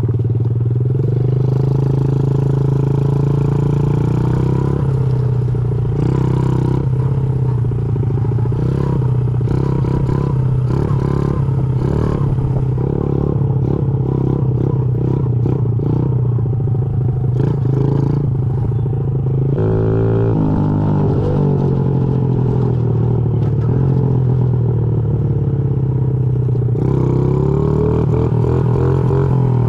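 Honda CRF50 pit bike's small single-cylinder four-stroke engine running steadily while being ridden. The revs shift about two-thirds of the way through and again near the end.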